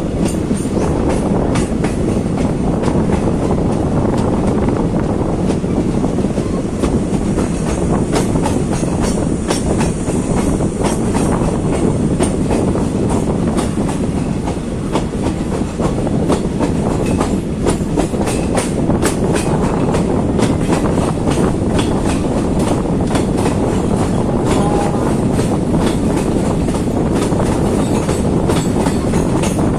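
Passenger train in motion, heard from on board: a steady loud rumble with wheels clicking over the rail joints again and again.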